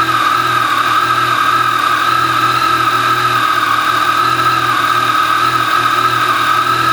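2019 Yamaha Tracer 900's 847 cc inline-three engine idling steadily through the stock exhaust on a cold start.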